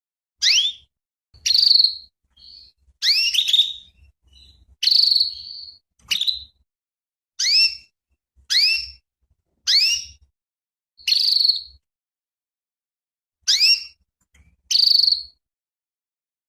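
Female domestic canary giving about a dozen short call notes, roughly one every second or so: most are quick rising whistles, a few are shorter buzzy notes. These are the female calls used to rouse male canaries into song.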